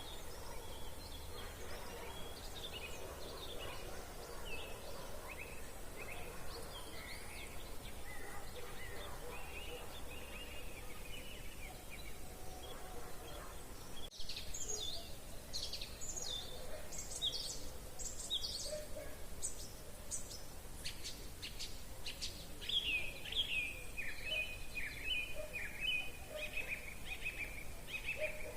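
Several songbirds singing together, a mix of short chirps and warbling phrases. About halfway through the song briefly breaks off and comes back louder and higher. Near the end one bird delivers a long run of quick repeated notes that dip slightly in pitch.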